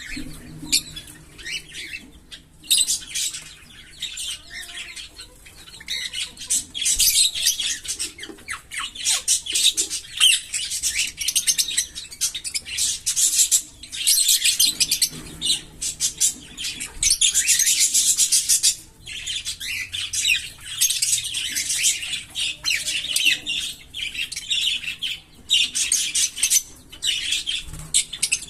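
A pair of green Fischer's lovebirds chattering and chirping in fast, high-pitched runs lasting several seconds, with short breaks between them.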